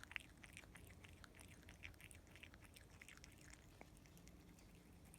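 A possum chewing bird seed: faint, irregular crunching clicks.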